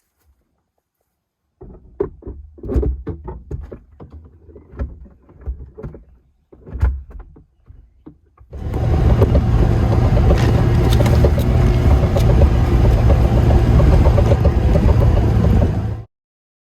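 A car on the move: a run of irregular knocks and bumps, then from about eight seconds a loud, steady rumble of engine and road noise that cuts off abruptly near the end.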